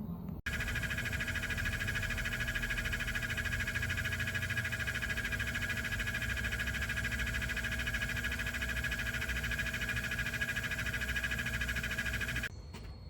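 Air-conditioning blower fan noise in an MG4 EV: a steady whine with several tones and a fast, even pulsing in it. It is a factory fault heard when the air con is on and changes with the fan speed, which the owner takes to be fan related. It starts suddenly just after the start and cuts off abruptly near the end.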